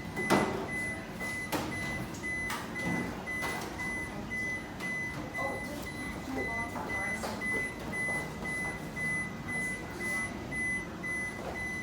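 Refrigerator door-open alarm beeping, a high beep about twice a second, the sign that the fridge door has been left open too long. Knocks and clatter of items being handled sound over it, the loudest just after the start.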